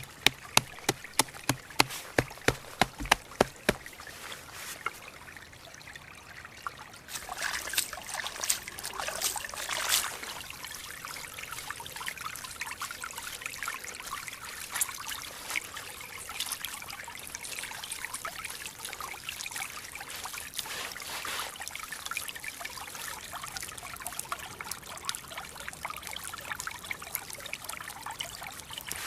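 A quick run of sharp knocks for the first few seconds, then after a short lull a steady wet trickling and dribbling of water.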